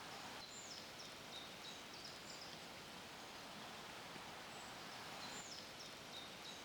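A small bird singing faintly twice, each song a high down-slurred note followed by a few short chirps, over a steady outdoor hiss.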